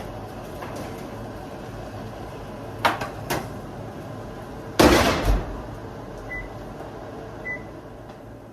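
Over the steady hum of a range hood fan on high, two clicks, then a loud knock like an oven door banging shut about five seconds in, followed by two short beeps.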